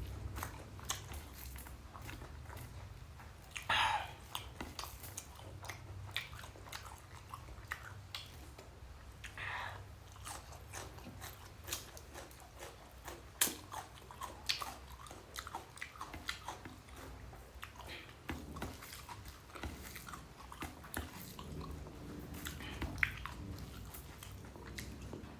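A person chewing and eating rice and egg curry close to the microphone: a run of wet mouth clicks and smacks, with a few longer slurping or smacking sounds scattered through.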